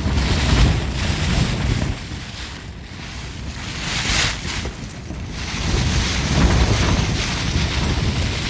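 Strong storm wind gusting, with low rumbling wind buffeting the microphone; it swells in surges at the start, about four seconds in, and again from about six seconds in.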